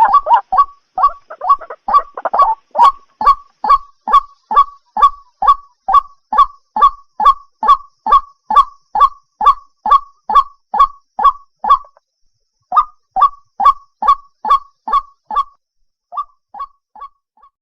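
White-breasted waterhen calling: a long run of repeated short 'kwak' notes a little over two a second. The notes come faster and more jumbled at the start, and the run breaks off briefly twice near the end. This is a recording played as a lure for trapping the birds at night.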